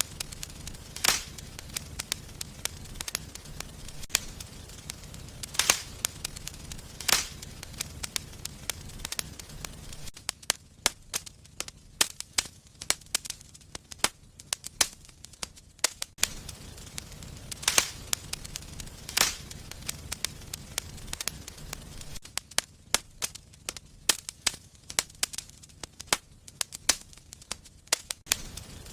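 Wood fire burning in a fireplace, crackling and popping irregularly, with a few sharp loud pops standing out over a low rumble of the flames.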